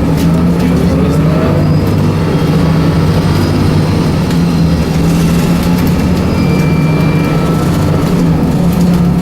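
Scania 9-litre six-cylinder turbocharged CNG engine of a Scania L94UB bus running with the bus under way, a steady low drone.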